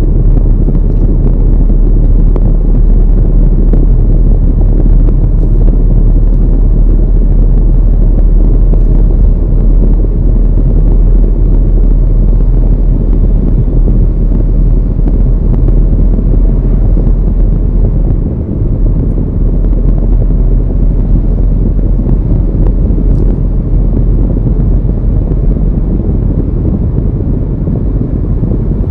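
A car driving on the road: a loud, steady low rumble of road and engine noise.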